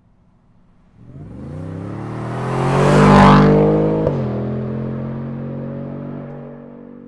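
Supercharged 5.2 L V8 of a Ford F-150 Raptor R through an AWE SwitchPath exhaust, accelerating hard past: the engine note climbs and grows loud, drops sharply on an upshift about four seconds in, then fades away.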